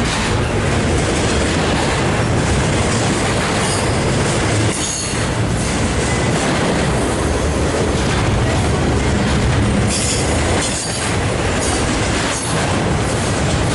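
A train rolling past, with loud steady rumble and clatter of wheels on rail and brief high squeals from the wheels a couple of times.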